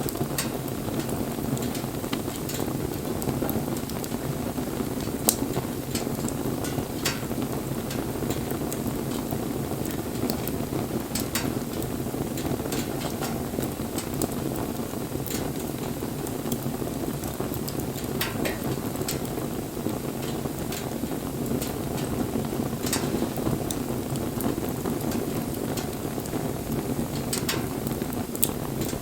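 Wood bonfire burning with a steady low rush of flame and frequent sharp crackles and pops from the wood, a few louder snaps among them.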